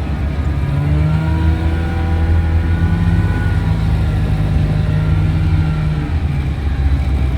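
1970 Cony kei truck's small engine running under load while driving on dirt, its pitch climbing slightly in the first few seconds and easing off about six seconds in.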